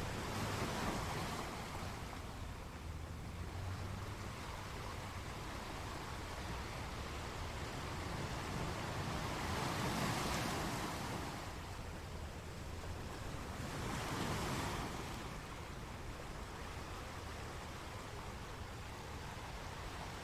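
Ocean surf: a steady rushing noise that swells louder three times as waves wash in.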